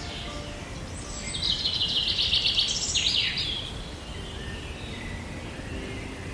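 A songbird singing a loud, rapid trill of repeated high notes about a second in, ending after about two seconds with a few falling notes, over steady outdoor background hiss.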